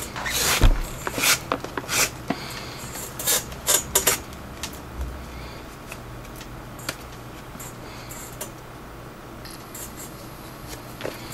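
Leather lace being pulled through the lace holes of a Mizuno Pro catcher's mitt: a run of quick rasping rubs in the first four seconds, then quieter handling with a few light ticks and one more pull near the end.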